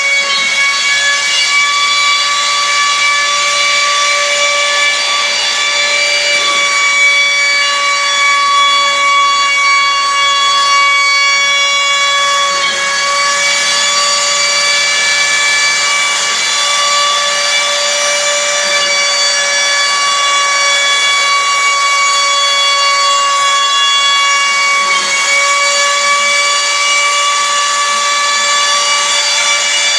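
CNC router spindle running with a steady high whine that holds its pitch throughout, with a haze of cutting noise typical of routing wood.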